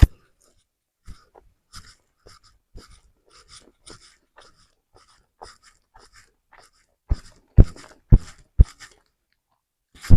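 Close-miked chewing of fried instant noodles and rice: a run of small wet mouth clicks, two or three a second, with a few low thumps about seven seconds in.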